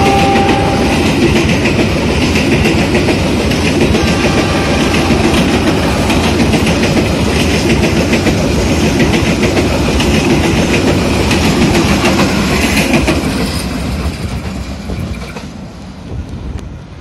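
Passenger train coaches rolling past, wheels clattering rhythmically over the rail joints, with the end of a diesel locomotive's horn in the first half-second. The rolling sound falls away about thirteen seconds in as the last coach passes and the train moves off.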